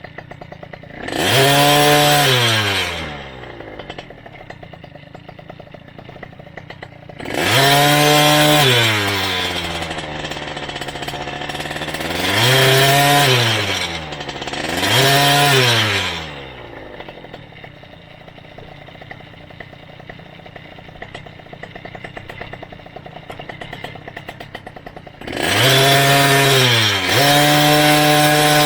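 Small motorized-bicycle engine revving up and dropping back about five times, running lower with a ticking putter between the revs. Near the end it climbs again and stays at a steady high speed.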